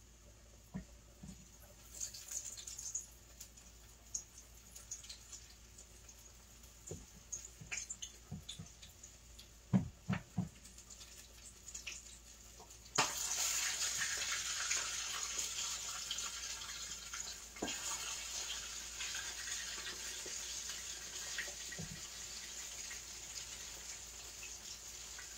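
Flour-coated chicken wings going into hot oil in a skillet: a few scattered clicks and knocks, then about halfway through a sudden sizzle of frying that carries on steadily, easing slightly, with a few more pieces dropping in.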